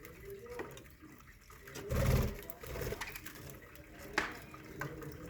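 Budgerigar colony in an aviary: soft chattering and chirping, with a short louder burst about two seconds in and a sharp click near the end.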